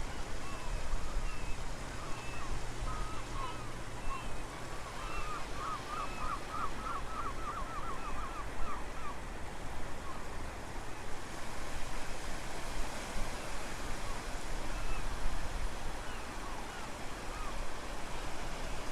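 Ocean waves washing at low tide with strong wind buffeting the microphone as a gusty low rumble. High bird chirps come and go in the first half, with a quick trill of about a dozen notes around five to seven seconds in.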